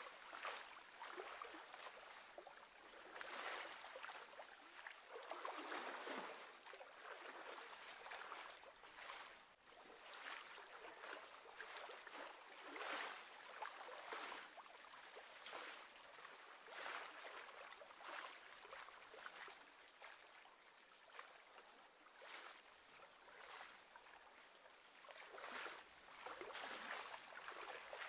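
Faint lapping of small waves on choppy lake water, swelling and fading irregularly every second or two.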